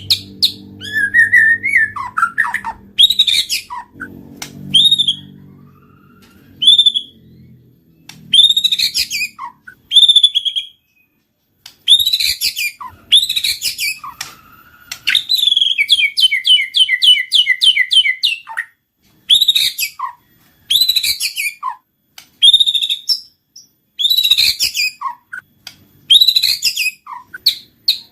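White-rumped shama singing: loud, sharp whistled phrases about a second apart, many dropping steeply in pitch. Partway through comes a run of rapidly repeated notes lasting about three seconds.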